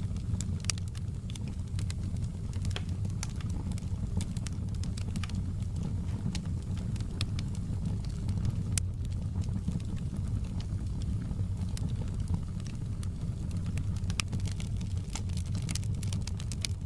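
Fire crackling: frequent sharp, irregular pops and snaps over a steady low rumble.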